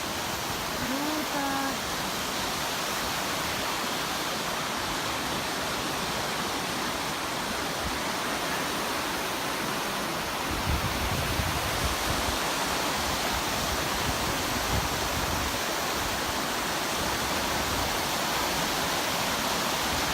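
Mountain river rushing steadily, a constant hiss of flowing water. A brief low rumble comes about halfway through.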